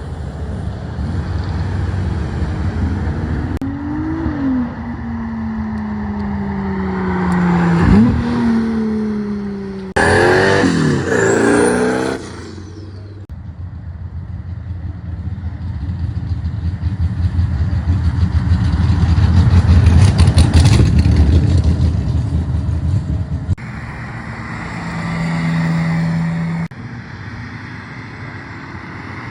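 Several cars accelerating past one after another, their engines revving and their exhausts loud. The loudest pass comes about two-thirds of the way through.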